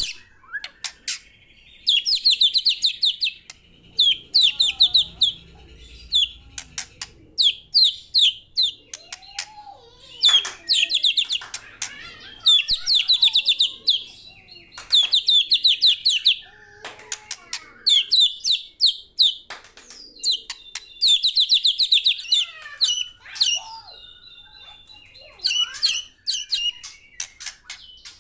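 White-rumped shama singing continuously: loud phrases of fast, high trills every couple of seconds, mixed with sharp whistled notes.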